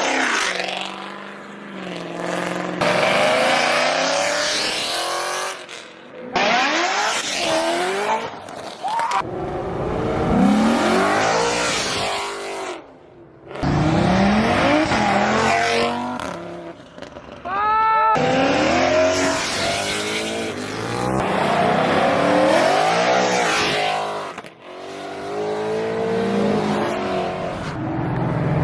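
Cars accelerating hard out of a car show, their engines revving up and dropping again over and over, with tyre squeal. The audio is a string of short clips, each breaking off suddenly into the next.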